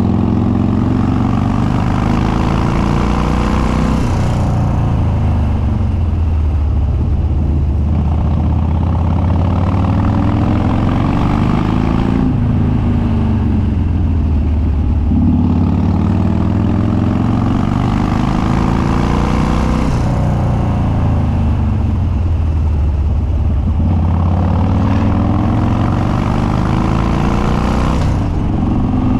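2013 Harley-Davidson Dyna Street Bob's Twin Cam V-twin, running through a custom upswept dual exhaust with no baffles and an open air filter. It pulls up through the revs in long climbs, dropping back about every four seconds as the throttle is rolled off or a gear is changed.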